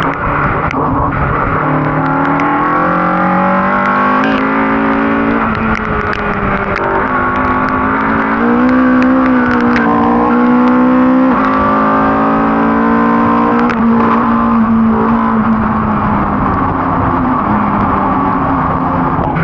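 Ford Cortina race car's engine under hard racing load, its pitch climbing several times with a sudden drop between climbs, then falling slowly over the last few seconds as it eases off. Sharp clicks and knocks are scattered through.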